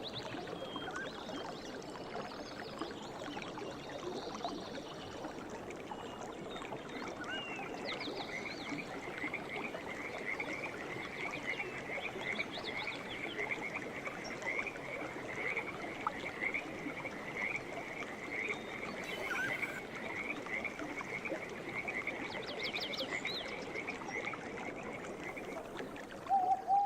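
A river or stream running, with scattered short bird chirps over it. For most of the time a fast, even trill holds one high pitch and then stops shortly before the end, where a louder, lower held call begins.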